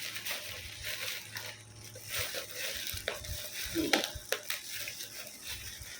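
Plastic packaging crinkling and rustling as it is handled, with a few sharp clicks.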